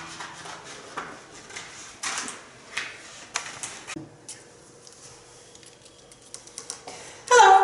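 Irregular clicks and light knocks of small objects being handled. A voice starts near the end.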